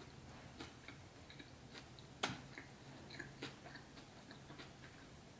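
Faint close-up chewing of burger meat: small wet clicks and smacks, with one sharper click about two seconds in, over a low steady hum.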